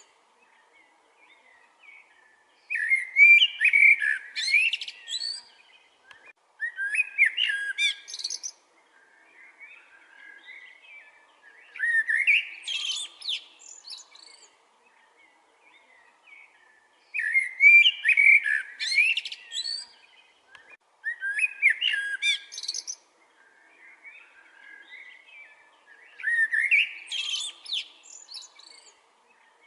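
Bird song: a bird sings a loud, quick, warbling phrase of about two seconds, repeated every four to five seconds, with fainter chirps in between.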